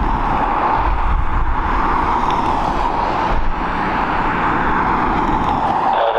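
Steady, loud jet aircraft engine noise with a low rumble underneath, no distinct events.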